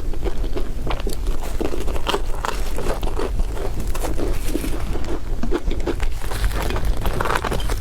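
Crispy bread being bitten and chewed, a dense run of crackly crunches over a steady low hum.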